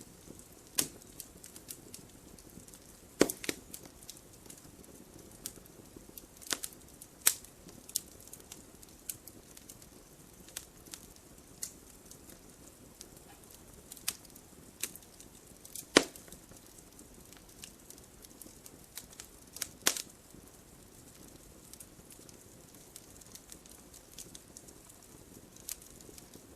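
Wood campfire burning with irregular crackling and sharp pops over a faint low hiss. A few louder pops stand out among the small crackles.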